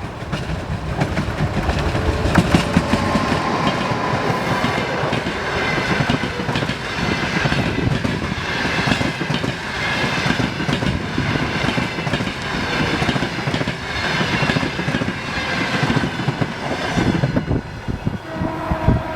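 Passenger coaches of a long-distance train rolling past at speed, wheels clattering in a steady rhythm over the rail joints. The sound stays loud until the level dips shortly before the end.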